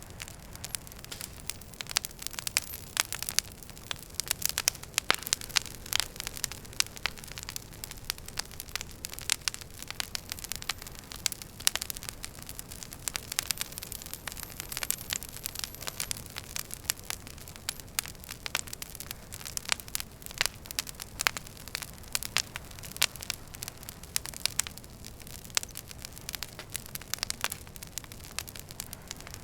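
Wood fire crackling steadily in a fireplace: dense, irregular sharp pops and snaps over a soft low rumble of the flames.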